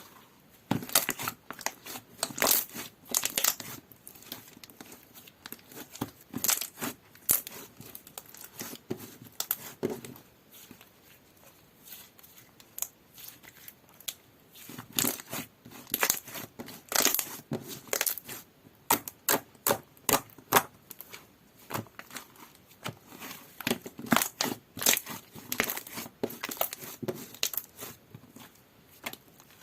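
Slime being squeezed and stretched by hand, giving off irregular clusters of sharp crackling clicks and pops with short quiet gaps between them.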